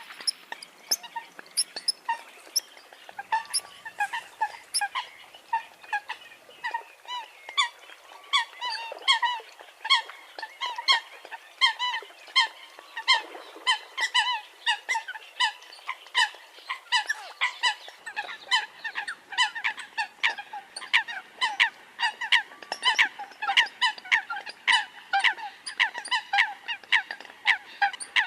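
Eurasian coot calling: a long run of short, sharp calls, two or three a second, without a break.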